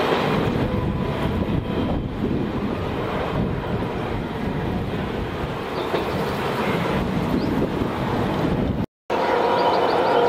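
Indian Railways passenger train rolling past on the track: a steady rumble of coach wheels on the rails. The sound cuts out for a moment near the end.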